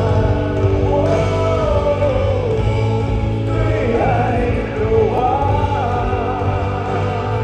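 A pop song performed live: the band plays over a steady, heavy bass while a sung vocal melody rises and falls above it.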